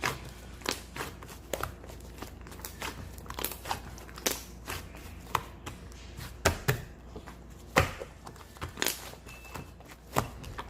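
Irregular sharp clicks and knocks, a few a second, over a steady low hum.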